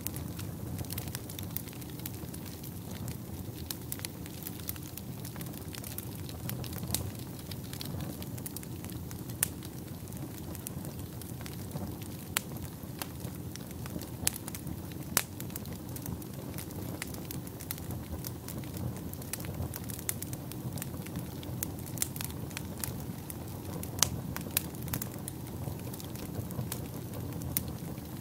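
Wood fire burning in a fireplace: a steady low hiss of flames with irregular sharp crackles and pops throughout, a few louder snaps among them.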